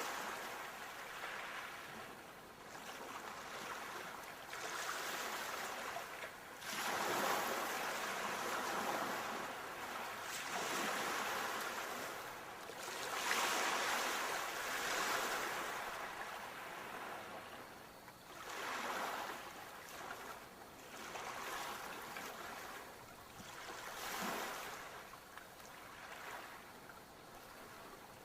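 Ocean waves breaking and washing up the shore, swelling and falling back in a series of surges, with the biggest breaks about seven seconds in, again around the middle, and near the end.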